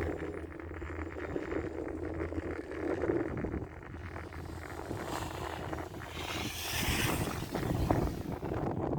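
Wind rushing over the microphone on a four-seat chairlift, over a low mechanical rumble, with a stronger gust of hiss about five to seven seconds in.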